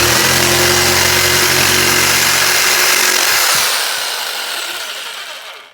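Black & Decker electric jigsaw with a T-shank blade cutting wood: the motor running steadily with the blade rasping through the board, then the motor stopping about three and a half seconds in and the sound fading away over the last two seconds.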